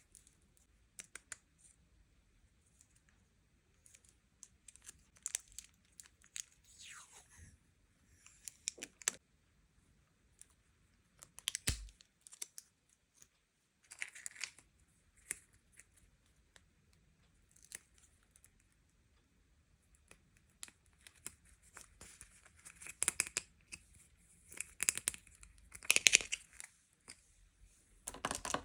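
Packaging being torn open and crinkled by hand, in scattered short rustles and small clicks that grow busier and louder in the last third.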